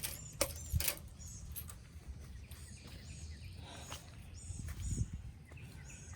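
Small birds chirping, short high calls repeated every second or so, over a steady low rumble, with a few sharp clicks in the first second.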